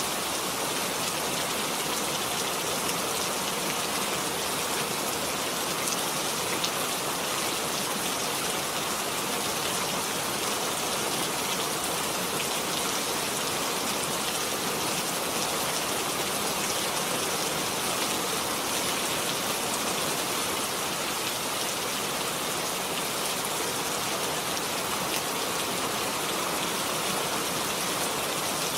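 Steady, heavy rain falling on a surface, with a dense hiss and fine patter of drops.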